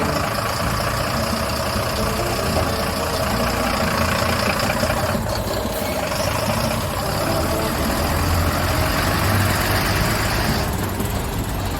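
Truck's diesel engine idling steadily, heard from inside the cab, with a high hiss that cuts off near the end.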